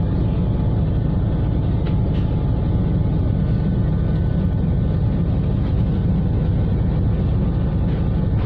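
Ship's engines running aboard a passenger ship, a loud, steady low rumble with no change in level.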